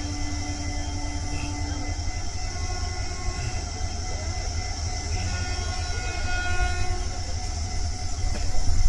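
An approaching train rumbling steadily, with a horn sounding for a couple of seconds a little past the middle. The train grows louder near the end.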